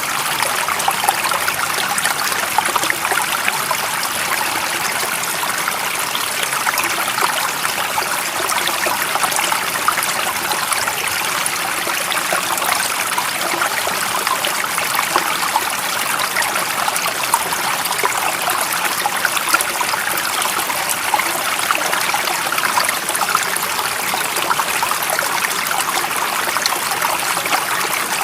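A stream of water running and trickling steadily, with a dense, even rush full of small quick splashes and no change in flow.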